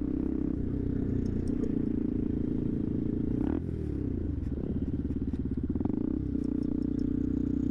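Motorcycle engine running steadily at low revs, with a brief dip and rise in pitch about three and a half seconds in.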